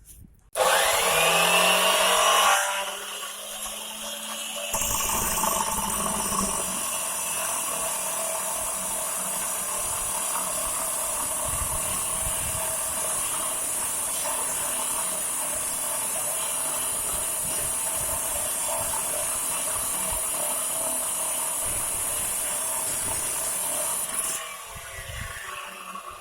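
Homemade angle grinder with a 230 mm stone disc starts with a rising whine, then grinds steadily through marble for about twenty seconds. It then shuts off and spins down near the end.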